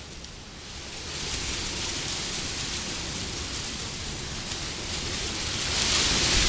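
Steady wind noise that eases off just after the start, builds again about a second in, and swells into a stronger gust near the end.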